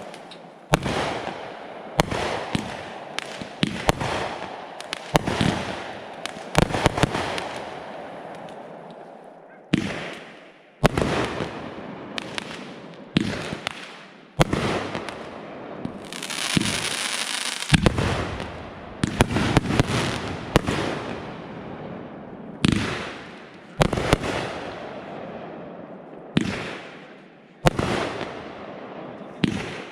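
Consumer fireworks going off: artillery shells and cakes bursting one after another, a sharp bang every second or two, each trailing off in crackle and echo. About 16 seconds in, a longer hissing crackle takes over for a couple of seconds.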